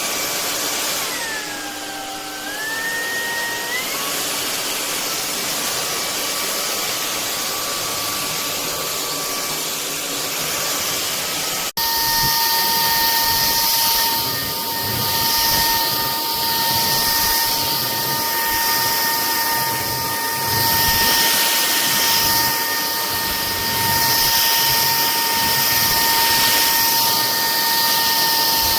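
Cordless stick vacuum cleaner running, a steady whine over a rush of air. About a second in, its pitch dips and then climbs back. After a brief break about twelve seconds in, it runs louder.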